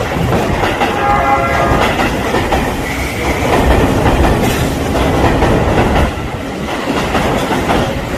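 Electric commuter train running alongside the platform, with a steady rumble and wheel clatter over the rails. A short tonal whine stands out about a second in.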